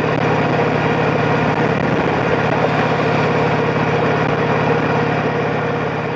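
Yamaha Drag Star 1100's air-cooled V-twin engine running at a steady, even pitch.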